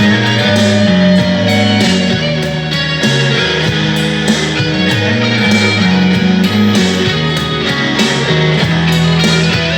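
Electric guitar played through a Zoom G5n multi-effects processor, sustained chords and notes in a slow rock song.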